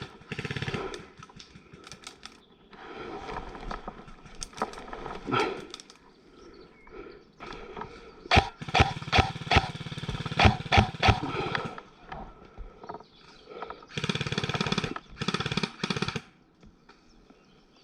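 Airsoft electric guns firing full-auto bursts: a long run of rapid shots about halfway through and another burst a little later, with quieter clatter between them.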